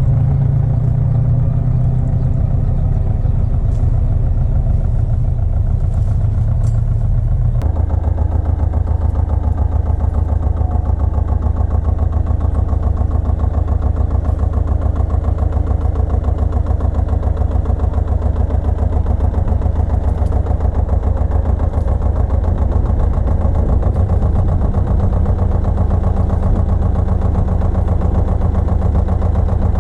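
Pasquali 980 EX tractor's engine running steadily, its note changing abruptly about seven and a half seconds in and then holding steady again.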